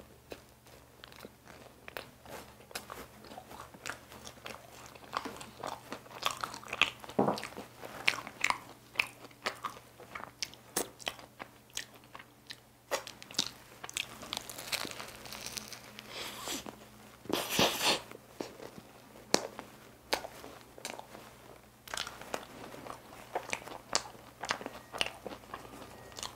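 Close-miked biting and chewing of a flaky cream-filled tiramisu pie: crisp pastry crackling in many short, sharp bursts between softer wet mouth sounds, with the loudest crunch about two-thirds of the way through.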